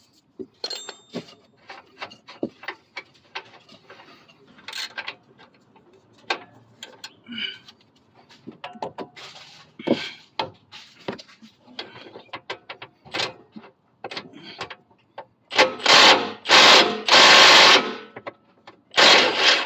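Ratchet and wrench clicks and knocks as tools are fitted on a suspension control arm's 19 mm bushing bolt. Near the end, four short loud bursts of an impact wrench break the bolt loose.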